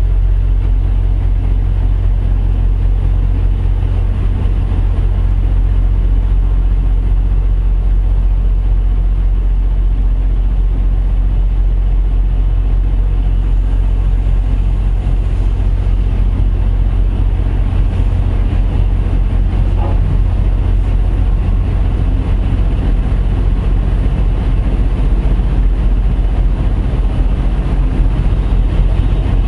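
Heavy diesel truck engine idling: a steady, loud low rumble.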